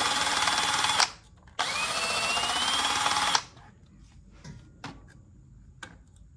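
Electric drill spinning a wire brush against the engine block's deck to scour off old gasket and paint. It stops about a second in, starts again and speeds up, then cuts off just past halfway, leaving a few light clicks.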